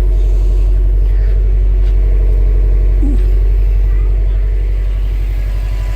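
A Subaru WRX STI's turbocharged 2.5-litre flat-four idling steadily, a low even rumble.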